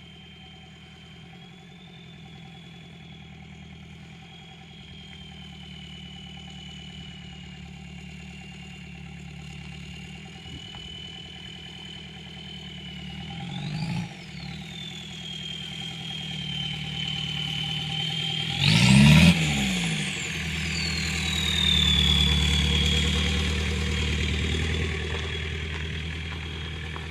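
VW T3's AAZ 1.9 turbodiesel engine running, its small K03 turbocharger whistling a thin high tone over the engine. The whistle swoops up with a short rev about 14 seconds in and shoots up much higher with a loud rev around 19 seconds in, then winds slowly back down to its steady pitch.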